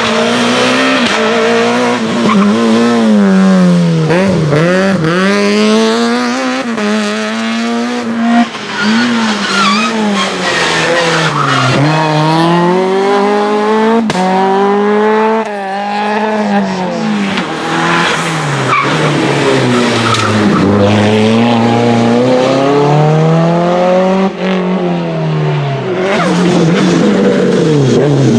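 Racing car engines being driven hard through a slalom course: the revs climb and drop back again and again as the cars accelerate, brake and downshift between the gates, with tyre squeal.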